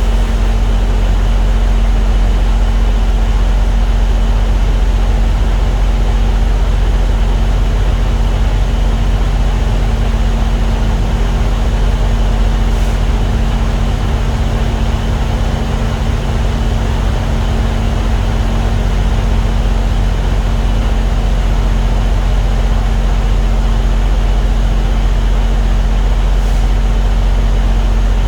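Diesel engine idling steadily, a loud, even low drone that does not change.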